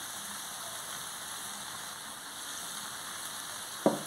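Vegetables frying in hot oil in a large pan over a charcoal fire, with a steady, even sizzle. A brief louder sound comes at the very end.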